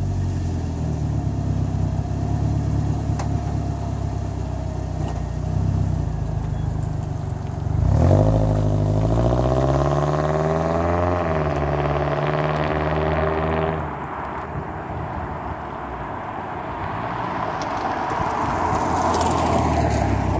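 Toyota Corolla's four-cylinder engine idling just after a start. About eight seconds in it revs as the car pulls away, the pitch climbing, dropping at a gear change and climbing again. After about fourteen seconds it is quieter as the car moves off into the distance.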